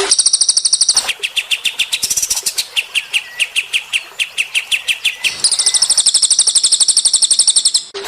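Songbird singing rapid trills of short high chips, many a second. A high double-pitched trill opens and returns about five and a half seconds in; between them comes a lower, faster series of notes.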